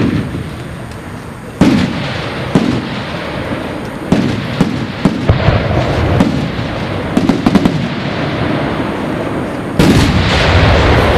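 Fireworks display: aerial shells bursting with sharp bangs at irregular intervals, with crackling and fizzing between them. A louder, denser burst comes near the end.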